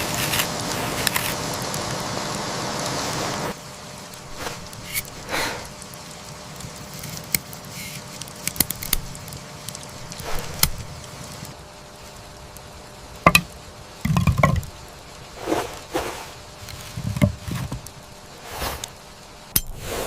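Steady rain hiss that cuts off suddenly about three and a half seconds in, followed by quieter scattered knocks, clicks and short rustles of things being handled.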